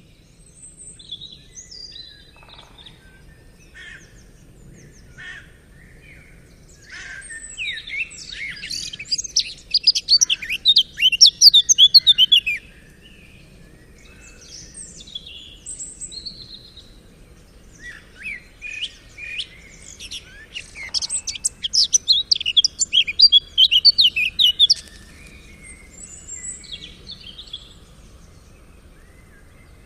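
A songbird singing: two long outbursts of rapid, varied high notes, each several seconds long, with scattered single chirps between them.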